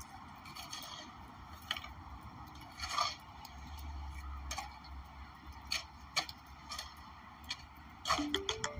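Snow shovel scraping and pushing snow in irregular strokes, roughly one a second, with a quicker cluster of scrapes near the end.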